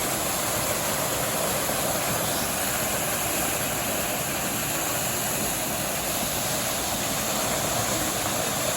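Steady rushing of falling water, a waterfall or cascade running without change.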